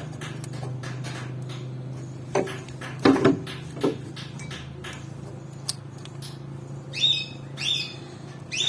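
A steady low hum with a few knocks around the middle, then three short high chirps near the end.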